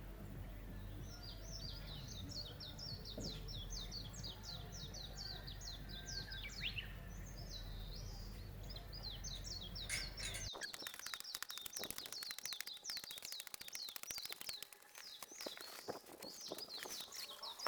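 Small songbirds chirping in quick runs of repeated high notes. A low steady hum underneath stops abruptly about ten seconds in, after which many short clicks or rustles join the birdsong.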